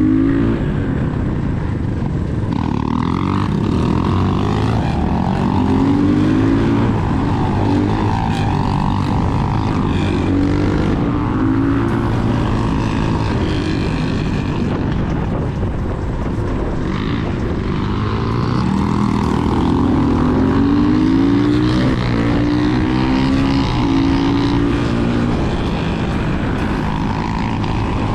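Motorcycle engine revving hard and shifting up through the gears again and again, its pitch climbing and dropping back with each shift, over a steady rush of noise.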